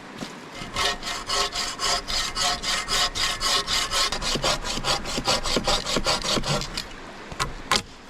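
Hand bow saw cutting through dry dead cedar in quick, even back-and-forth strokes. It starts about a second in and stops about a second before the end, followed by two sharp knocks.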